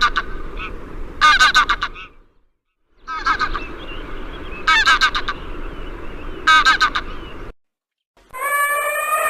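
Waterfowl honking in short bursts of several rapid calls, over a steady background of other birds. The sound cuts off abruptly twice. Near the end, a different, long, drawn-out call starts.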